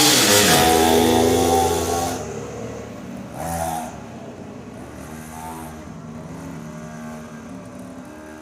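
Mini motocross bike's small engine running loudly, its note sweeping in pitch at the start. About two seconds in the sound drops off abruptly to a fainter engine note, with a short swell around three and a half seconds.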